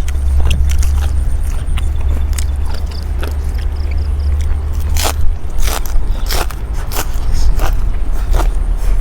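Crisp cracks and scrapes of food being prepared by hand, coming at irregular intervals, over a steady low rumble.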